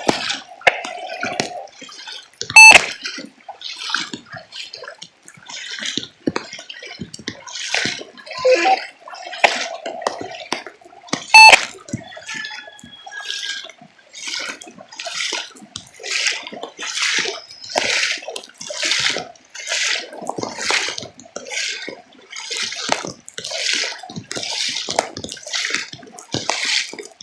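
Water rushing and splashing in regular surges, about one every three quarters of a second, with two sharp clicks and a few brief tones in the first half.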